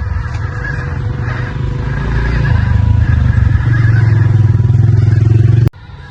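Motor of an off-road RC car running under load, pulsing rapidly and growing louder over the last few seconds, then cut off suddenly near the end.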